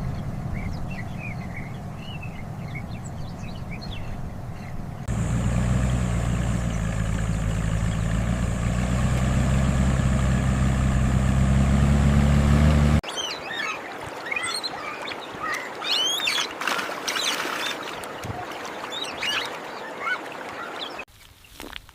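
Outdoor nature ambience in three abrupt sections: a low rumble with birds chirping, then a steady engine drone for about eight seconds that cuts off suddenly, then a busy chorus of bird calls with quacking.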